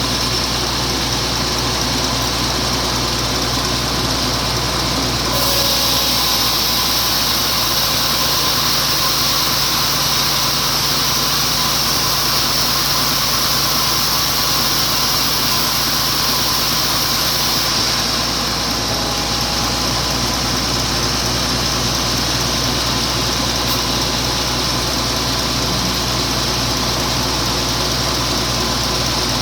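Sawmill saw running steadily while sawing a wet teak log into boards. A louder hiss joins from about five seconds in until about eighteen seconds.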